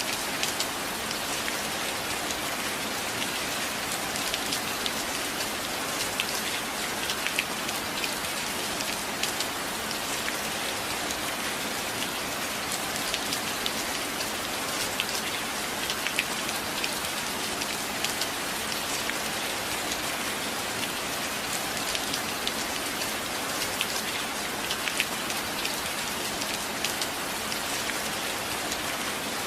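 Steady rain falling, a continuous even hiss with many small drop ticks scattered through it.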